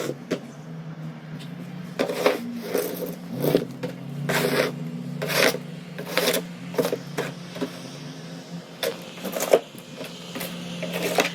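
Snow shovel scraping over pavement in about ten irregular strokes, each short and gritty, with a steady low hum underneath.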